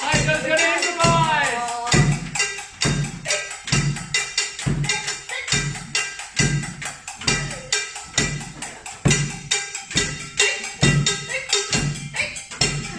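Group percussion playing a Japanese festival-style rhythm: a steady low drum beat, roughly one to two strokes a second, under rapid sharp stick clicks and taps. A voice sings briefly over it in the first couple of seconds.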